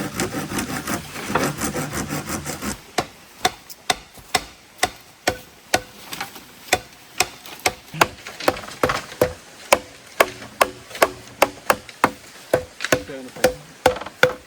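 A hand tool striking wood in a steady series of hard blows, about two a second, each with a short ringing note, after a faster, denser flurry of strokes at the start.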